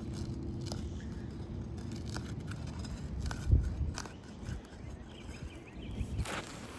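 Scattered light clicks and scraping, with a dull thump about three and a half seconds in: hands working an asphalt roof shingle loose from its seal.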